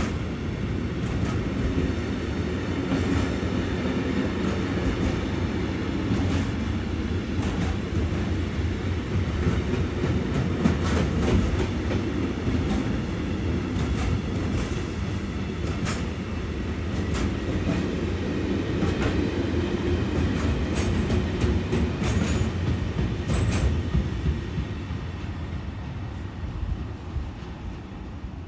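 A train running past on the station tracks: a steady low rumble of wheels on rail, with repeated sharp clicks as the wheels cross rail joints. It dies away over the last few seconds.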